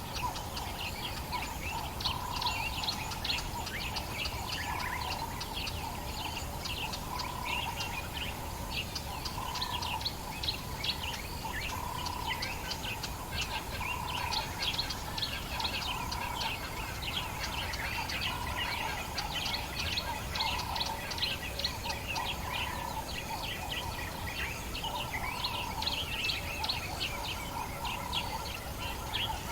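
Dawn chorus of many African bush birds chirping and twittering together, with a lower call repeated steadily about every second and a half.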